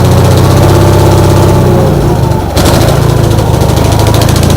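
Gravely 818 riding tractor's engine running, with a brief sag and drop in pitch a little past halfway before it picks up again. It is laboring because it is still not really getting fuel past a carburettor float that keeps jamming shut.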